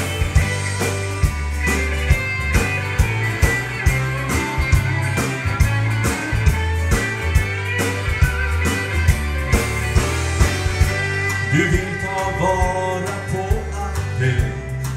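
Live band playing an upbeat gospel-country song: a singing voice over a steady drum beat, bass and guitar.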